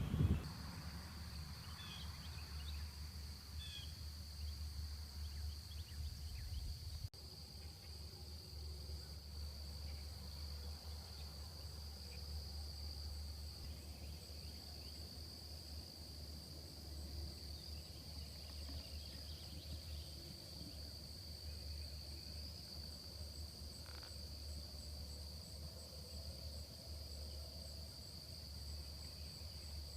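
Steady high-pitched chorus of insects, such as crickets or katydids, trilling without a break, over a low steady hum.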